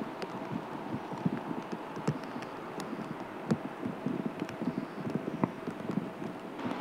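Raindrops tapping irregularly and unevenly on a surface close to the microphone, over a faint steady tone.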